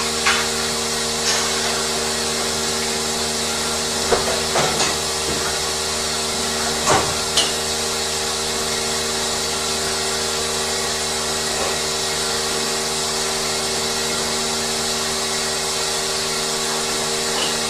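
Dairy barn machinery running with a steady hum and hiss, with a few short knocks and clanks about four and seven seconds in.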